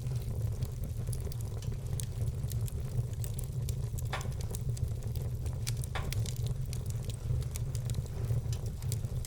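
Wood fire burning: a steady low rumble under frequent small crackles, with a couple of sharper pops about four and six seconds in.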